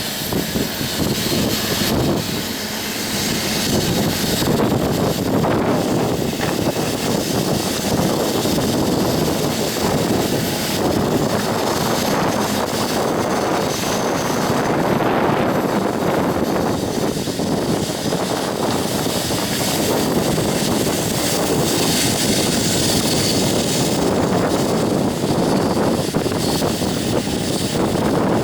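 Union Pacific coal train's cars rolling past: a steady, loud rumble and rush of steel wheels on rail.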